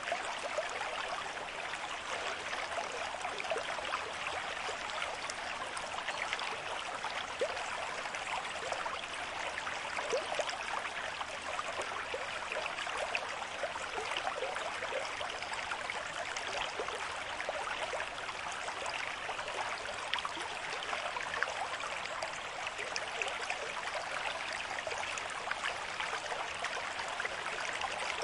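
A stream with moderate flow, running over stones with a steady babble and small splashes and gurgles.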